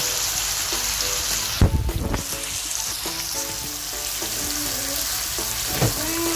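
Prawns and sliced onions sizzling steadily in oil in a nonstick frying pan as they are stirred with a wooden spatula, with a dull thud near two seconds in and another near the end.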